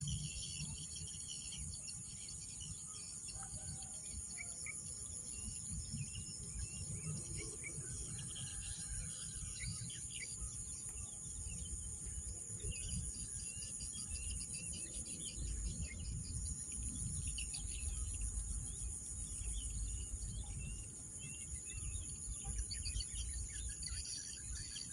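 Nature ambience: a steady high-pitched insect drone with many short bird chirps scattered through it, over a low rumble.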